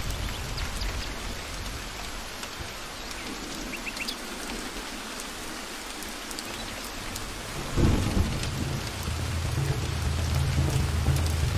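Steady heavy rain falling in a forest, with low rolling thunder that dies away in the middle. Then comes a sudden thunderclap about eight seconds in, and the rumbling carries on after it.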